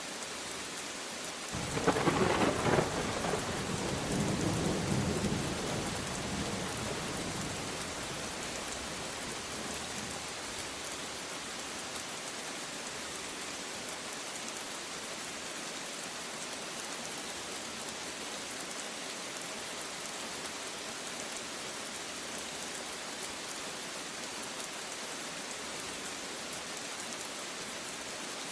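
Steady rain falling, with a clap of thunder about two seconds in: a sharp crack that rumbles away over the next several seconds, leaving the rain alone.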